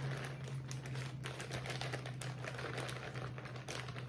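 Rapid, irregular light clicks and taps of salad being prepared, over a steady low hum.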